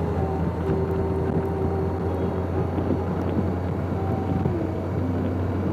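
Motorcycle engine running steadily at road speed, a constant low drone with wind noise over the microphone.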